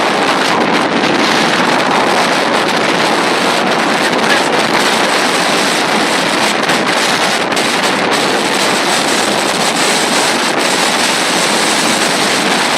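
Strong storm wind blasting over the microphone, a loud steady rushing.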